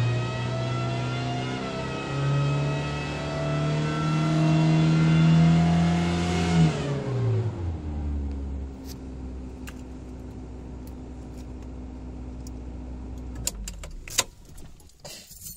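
Toyota 22RE four-cylinder engine revving, its pitch stepping up and down, then dropping about seven seconds in to a steady lower run. A few sharp clicks come near the end.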